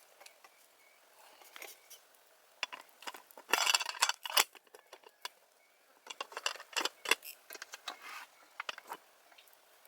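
Light clattering and clinking of small hard objects being handled, busiest about three and a half seconds in and again around six to seven seconds in.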